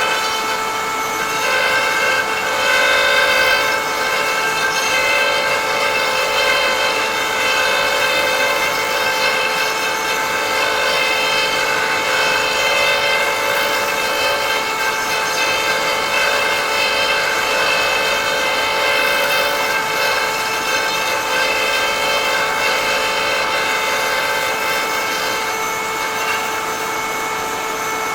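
High-speed router on a woodturning threading jig running steadily with a constant whine, cutting threads into a wooden box.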